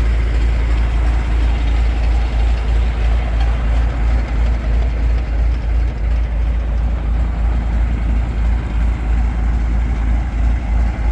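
MAN M1001 military truck's 10-cylinder diesel engine idling steadily with a deep, loud rumble.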